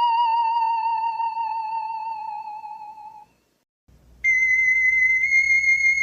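Electronic mobile-phone ringtone: a wavering, theremin-like tone fades out over about three seconds. After a short gap a steadier, higher tone starts.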